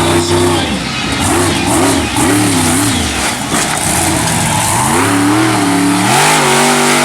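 Monster truck engine revving hard, its pitch swinging up and down several times, easing off briefly about three seconds in, then climbing again and holding high near the end.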